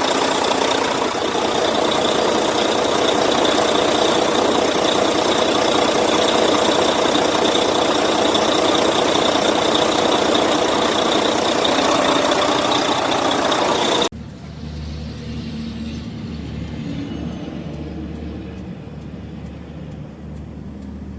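2014 Volvo semi truck's diesel engine running: loud and clattering with a steady high whine, then after a sudden cut about 14 seconds in, a quieter, low, steady drone.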